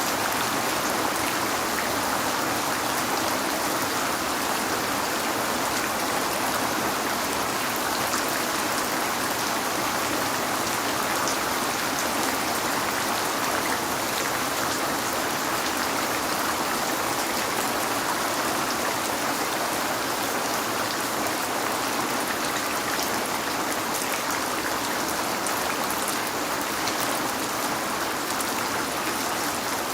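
Steady heavy rain falling, a continuous even hiss with fine drop patter.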